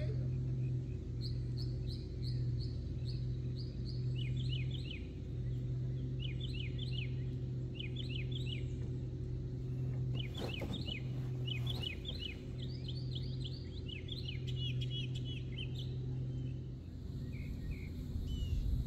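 Songbirds chirping in quick repeated phrases, over a steady low hum that drops out briefly now and then.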